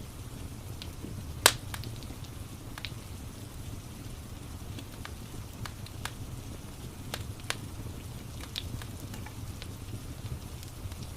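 Wood fire crackling with scattered sharp pops, one much louder about a second and a half in, over a steady low rumble and the even hiss of rain.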